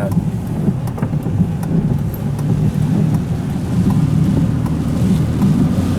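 A car driving on a wet road: a steady low engine and tyre rumble with scattered light ticks.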